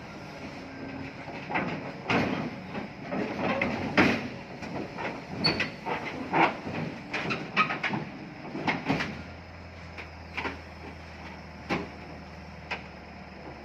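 Heavy machinery clanking: a long run of irregular metal knocks and clanks over a steady low engine hum. The clanks come thickest in the first two-thirds and thin out to a few single knocks near the end.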